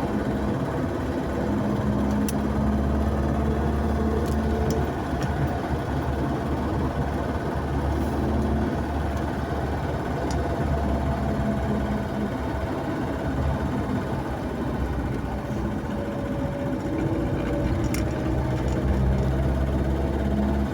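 A car driving steadily, with a continuous engine hum and road noise whose pitch shifts slightly now and then.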